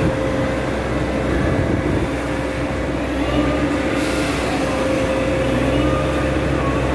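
Excavator's diesel engine running steadily, with a continuous low rumble and a steady hum.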